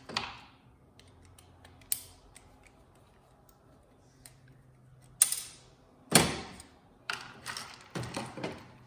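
Hand tools and plastic TV parts being worked while screws are taken out of the button panel. Light clicks, two sharp knocks about five and six seconds in, then a quick run of clattering knocks near the end.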